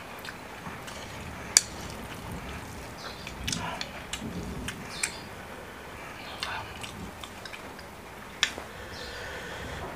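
Close-up eating of noodles: soft chewing and wet mouth sounds, with scattered small clicks and two sharp clicks about a second and a half in and near the end. A steady hiss of rain runs underneath.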